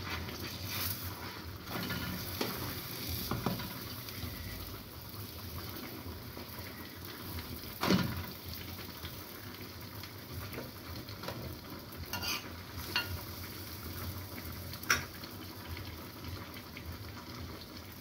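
Food sizzling steadily in frying pans on a gas stove, with spoon stirring and occasional short clicks and knocks of metal utensils against the pans; the sharpest knock comes about eight seconds in.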